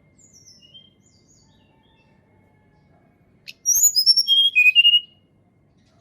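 Tledekan gunung songbird singing: a few faint high chirps, then about three and a half seconds in a loud phrase of clear whistled notes stepping down in pitch, lasting about a second and a half.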